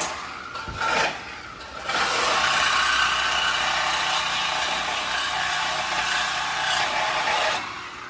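Dodge Charger Scat Pack 392 V8 running: a few short surges in the first two seconds, then about six seconds of steady engine and road noise with a low drone underneath.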